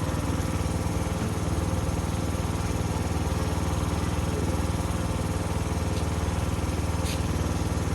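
A Coleman minibike's small single-cylinder four-stroke engine running steadily at a constant pitch, with no revving.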